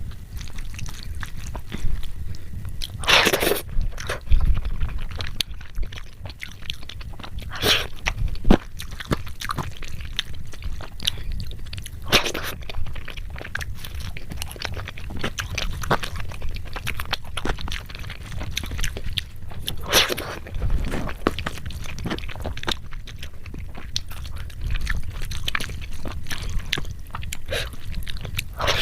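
Close-up eating: a person chewing and crunching food, with many small wet clicks and a few louder crisp bites.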